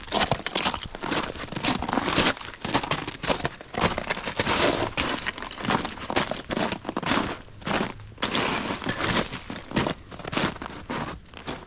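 Footsteps crunching and crackling over broken-up ice and snow, in a steady run of short irregular crunches.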